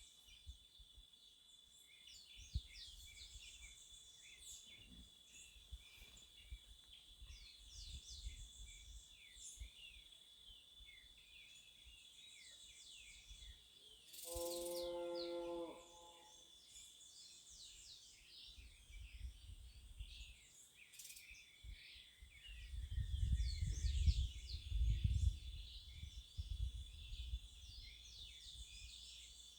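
Many wild birds chirping and singing in a dense chorus of short calls, over a steady high-pitched drone. About halfway through a louder steady pitched tone sounds for about a second and a half, and later a low rumble rises and falls.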